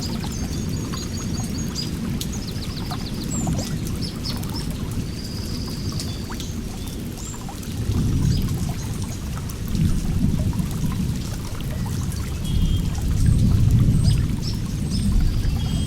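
Running water with a deep rushing rumble that swells louder a few times in the second half, and small songbirds chirping over it: a quick trill near the start, a short held whistle, and scattered chirps.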